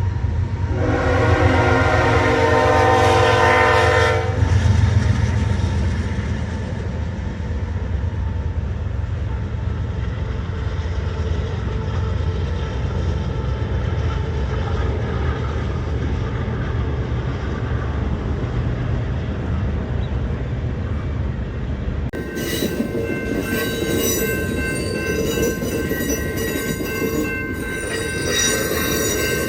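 A train horn sounds one long blast of about three and a half seconds, followed by the steady low rumble of a train running. In the last several seconds, high-pitched squealing from train wheels and repeated clicks join the rumble.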